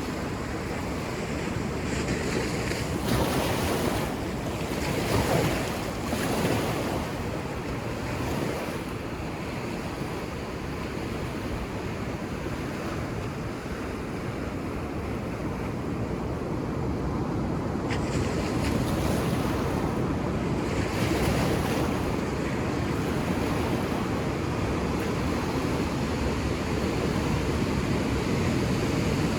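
Ocean waves breaking and washing on a beach, a steady rushing surf that swells louder a few seconds in and again about two-thirds of the way through, with some wind on the microphone.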